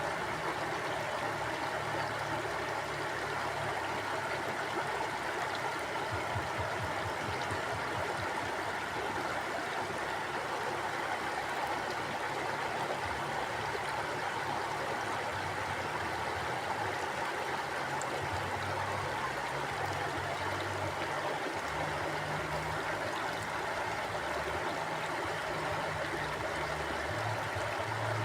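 Mountain stream flowing steadily over rocks, a continuous rushing and gurgling of water with a low rumble underneath.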